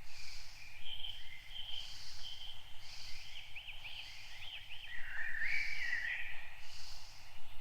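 Several birds chirping and calling in quick sweeping notes, over a soft high hiss that swells and fades about once a second.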